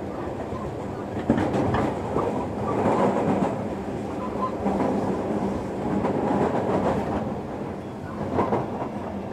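Inside a JR Kyushu 305 series electric train (motor car MoHa 305-106) running on the rails as it slows for the next station, with a steady rumble and a few sharp wheel knocks.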